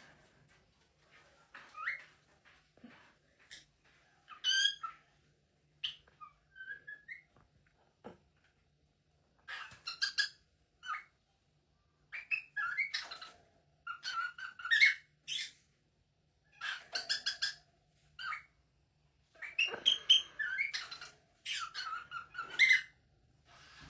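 A pet parrot calling over and over: short squawks and whistled notes, some in quick runs, with brief pauses between them.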